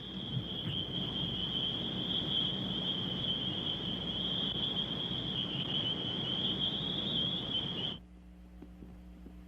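Crickets trilling in one steady high-pitched chorus over film-soundtrack hiss. The trill cuts off abruptly about eight seconds in, leaving a faint low hum.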